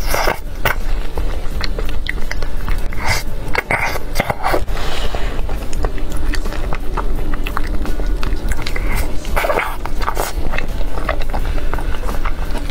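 Close-miked eating sounds: biting into and chewing a sauce-glazed eel fillet, with many sharp, wet mouth clicks and smacks. Background music with a steady bass runs underneath.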